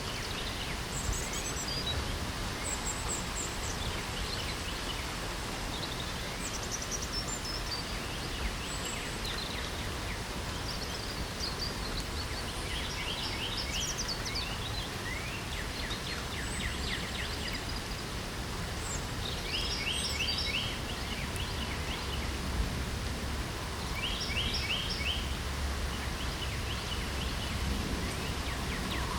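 Steady hiss of light spring rain, with songbirds singing over it in short, rapid trilled phrases that come again and again.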